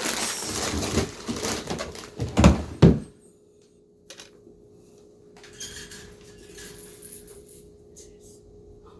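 A budgie rattling and knocking a small ball toy: dense clattering for about three seconds ending in two louder knocks, then only a few faint light taps.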